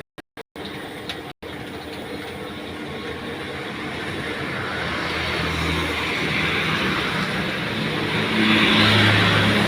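Rain falling, a steady hiss that slowly grows louder as it gets heavier. A low hum rises under it about five seconds in and again near the end.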